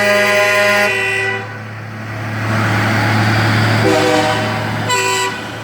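Truck horn held on a steady chord, cutting off about a second in, then a truck engine running past, and two short horn blasts near the end.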